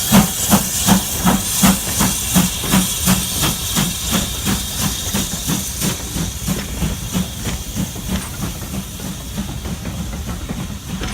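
BR Standard Class 4MT 2-6-0 steam locomotive 76017 pulling away, its exhaust beating in a steady rhythm of about two to three chuffs a second over a constant steam hiss. The beats grow gradually fainter as the engine moves off.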